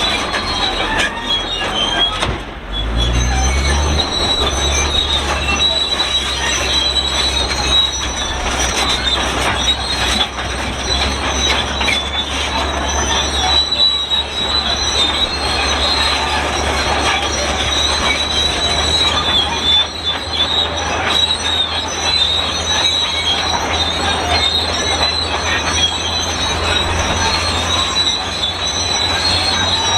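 Shantui SD32 crawler bulldozer's steel tracks squealing and screeching continuously as it moves, over the steady drone of its diesel engine. The squeal dips briefly about two and a half seconds in while the engine pitch rises.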